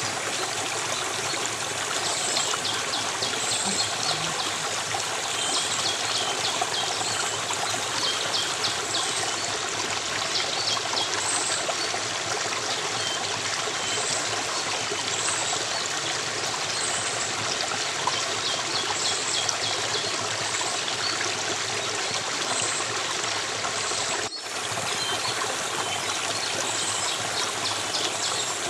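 Steady flowing stream of water, with short high chirps repeating every second or two above it. The sound drops out for a moment near the end.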